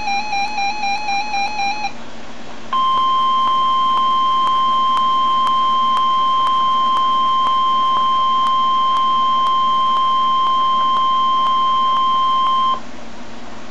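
NOAA Weather Radio alert: a warbling electronic tone for the first two seconds, then, after a short gap, the steady 1050 Hz weather alert tone sounding for about ten seconds and cutting off. The tone signals that a weather alert, here a severe thunderstorm watch, is about to be read.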